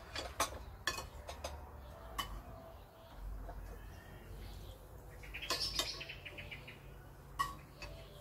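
Cutlery clinking against plates a few times during a meal, with a brief rapid chirping trill about five and a half seconds in.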